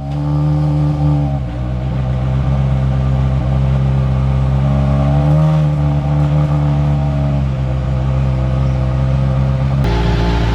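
Skoda Fabia R5 rally car's turbocharged four-cylinder engine running at steady, held revs, with small dips in pitch twice; the sound changes abruptly near the end.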